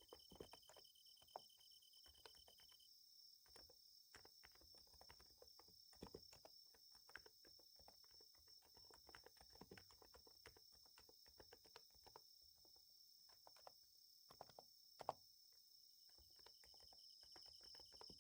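Faint, quick, irregular typing on a Niz Plum x108 electrostatic capacitive keyboard over the steady chirring of night insects such as crickets. One of the insect tones drops out about three seconds in and comes back near the end.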